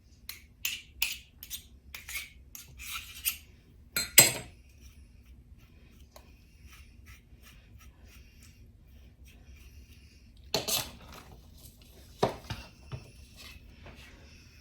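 Metal cookie scoop scraping and clicking against a bowl as minced garlic is scooped out, with a few louder knocks of utensils on kitchenware.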